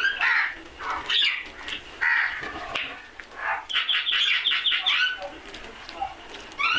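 Crows cawing in harsh, repeated calls, with a quick run of short repeated notes, about six a second, near the middle.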